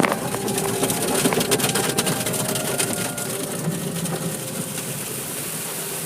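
Automatic car wash machinery working on the car, heard from inside the cabin: a dense patter of quick clicks over a hiss against the car body, settling into a steadier, slightly quieter hiss after about three seconds.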